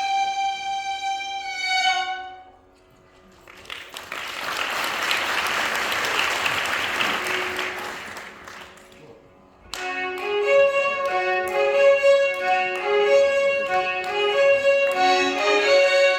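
Violin orchestra playing Carnatic music: sustained violin notes die away into a brief hush. A rushing, hissing passage without clear pitch swells and fades over several seconds. Then the violins come in together abruptly with quick melodic phrases.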